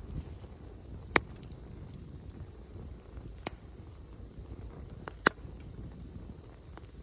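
Wood fire crackling: three sharp pops, about a second in, midway and near the end, with a few fainter ticks between, over a low steady rumble.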